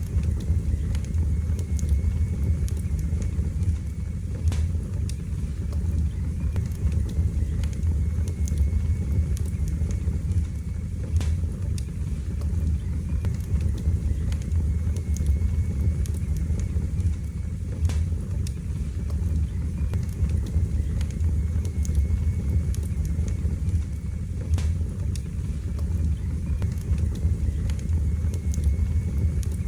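Wood fire burning in a fireplace: a steady low roar of the flames with frequent sharp crackles and pops scattered irregularly throughout.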